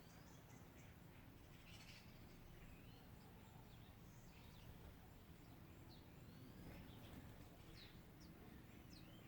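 Faint birds chirping outdoors: scattered short calls and a few quick rising and falling notes, over a low steady background rumble.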